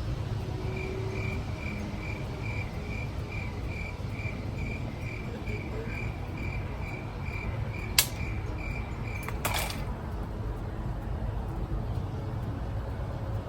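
A cricket chirping in an even rhythm, about three short chirps a second, which stops just before ten seconds in. A sharp click comes about eight seconds in, and a short scratchy burst follows a second and a half later, over a steady low rumble.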